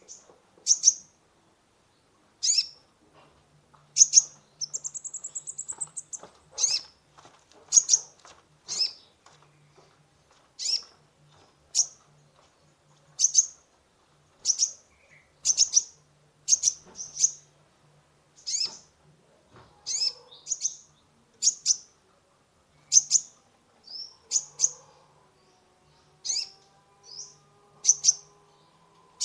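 Kolibri ninja (konin) sunbird singing: sharp, high chirps repeated about once a second, with a rapid rising trill about five seconds in.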